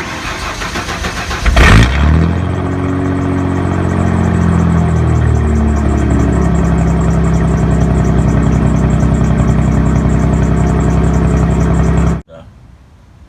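Cold start of a Ford F-150 OBS pickup's engine, straight-piped with the muffler deleted. The starter cranks for about a second and a half and the engine catches with a loud flare. It settles into a fast idle that eases down slightly over the next few seconds, runs steadily, and stops abruptly near the end.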